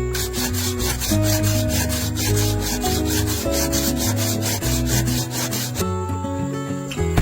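Hand sawing through wood in fast, even strokes, about five a second, stopping about six seconds in, over background music with a bass line.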